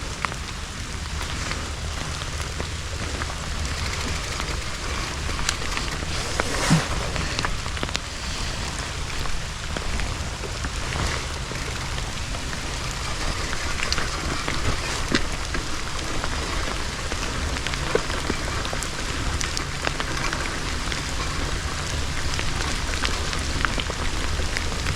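Rain falling steadily, with many scattered sharp drop ticks over a low rumble and one louder knock about seven seconds in.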